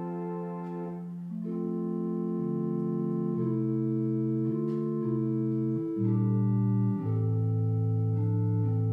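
Organ playing slow, sustained chords, the held notes changing every second or two, with a deeper bass note coming in about six seconds in.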